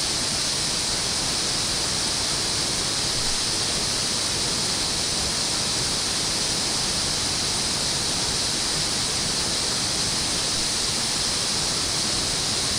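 Water rushing steadily through a dam.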